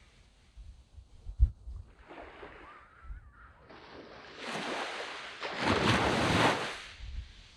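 Small waves breaking and washing up a sandy beach. A faint wash comes about two seconds in, then a louder surge of surf from about four seconds swells twice and fades near the end. Low wind buffeting on the microphone comes through between waves.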